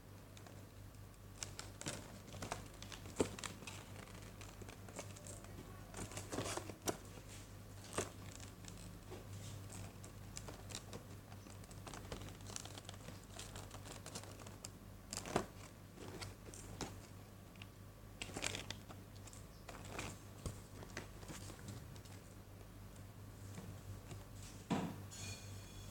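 Packaging being handled and opened: intermittent crinkling and rustling with scattered sharp taps and clicks, over a steady low hum.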